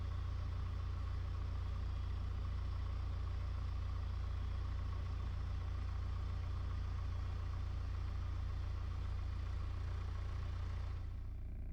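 Piper Tomahawk's four-cylinder Lycoming O-235 engine running steadily, heard from the cockpit. Near the end the higher part of the sound falls away and the engine sound dulls.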